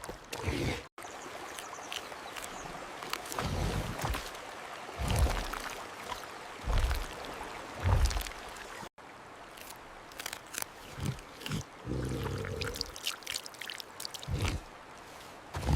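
Water running and splashing as a large wild animal drinks at the water's edge, with several heavy low thuds.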